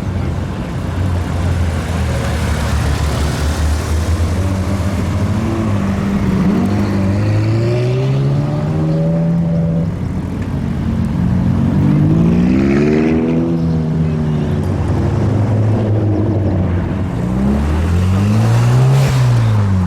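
Performance car engines: a steady low engine drone, then cars revving or pulling through, their engine notes rising and falling three times.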